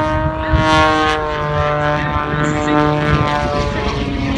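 Piston engine and propeller of a small custom-built aerobatic biplane flying overhead, a loud droning note with many overtones. The pitch holds steady, then drops over the last second or so.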